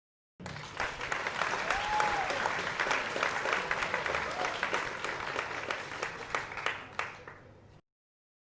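Crowd applause: many hands clapping in a dense patter that starts abruptly, tails off near the end and then cuts off sharply.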